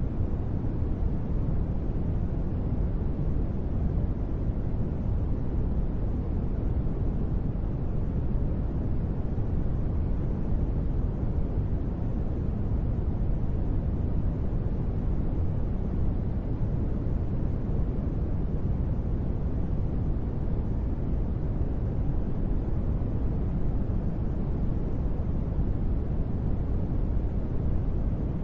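Steady, deep, muffled rain noise with no separate drops, used as sleep white noise. It is unchanging throughout, with most of its weight in the low end.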